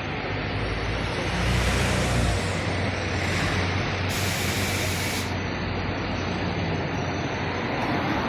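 Heavy diesel tow truck running with the dead bus in tow, a steady engine and road rumble, swelling lower and louder for a second or so near the start. About four seconds in, a hiss of air lasting about a second, typical of an air brake release.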